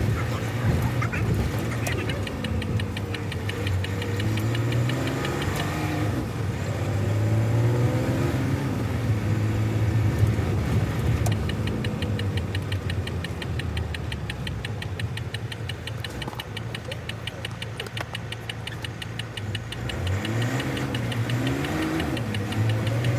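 Semi-truck's diesel engine heard from inside the cab, pulling away under load. Its pitch rises and drops back several times as it works up through the gears.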